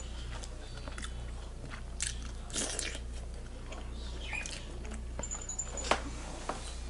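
Close-up eating sounds of a person biting and chewing seafood, with scattered wet clicks and a short crackle, over a steady low hum.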